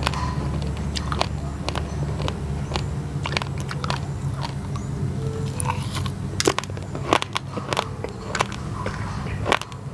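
Raw, uncooked rice grains (basmati mixed with glutinous rice) being bitten and chewed: sharp, irregular crunches and crackles, with a few louder ones in the second half, over a steady low rumble.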